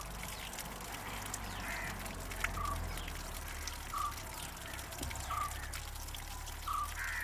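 Floodwater pouring and trickling out of the oil drain of a Tata Indica's diesel engine: the sump is full of water rather than oil. A bird calls in short repeated chirps, roughly one every second and a half.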